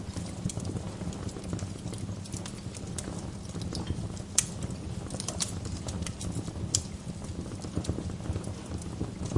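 Wood fire burning in a fireplace: a steady low rumble under irregular crackling, with sharp pops of the burning logs, the loudest about four and a half seconds in.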